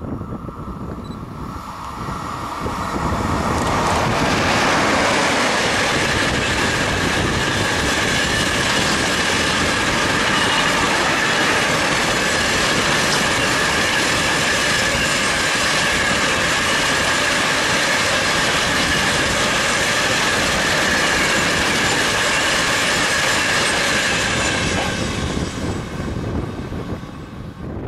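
Long freight train of enclosed double-deck car-transporter wagons, hauled by an electric locomotive, passing close by on the rails. The rumble of the wheels builds over the first few seconds, then holds steady with a high whine above it, and fades near the end.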